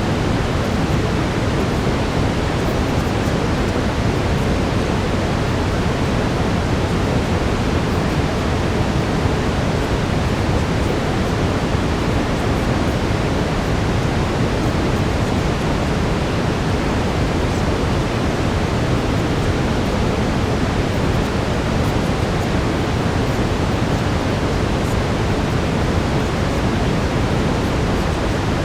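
Steady brown noise: an even, deep rushing hiss that does not change.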